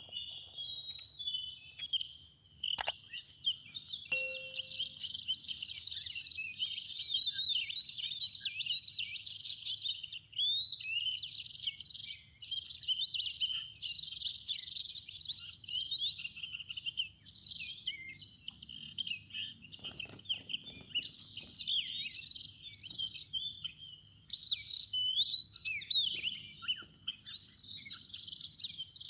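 Oriental magpie-robin song: a fast, continuous run of varied whistles and chirps with many quick rising and falling notes, over a steady high-pitched insect drone.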